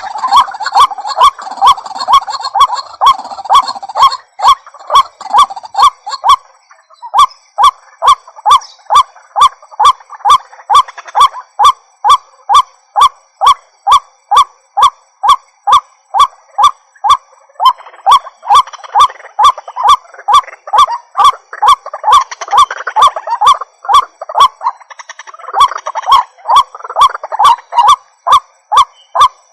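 White-breasted waterhen (ruak-ruak) giving its loud, honking call over and over, about three calls a second in a steady, unbroken rhythm.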